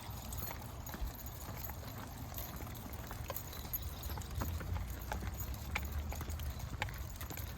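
Footsteps of a person and dogs walking on a trail: irregular sharp clicks over a steady low rumble.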